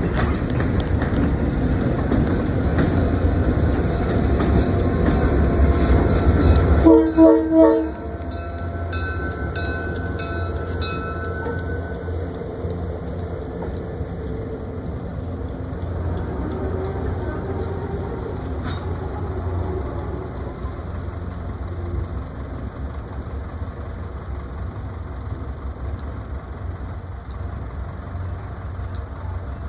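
A train running on the rails, its noise heavy with regular clicks, then a few short horn toots about seven seconds in, the loudest part. After the toots the sound settles into a steadier, quieter engine rumble.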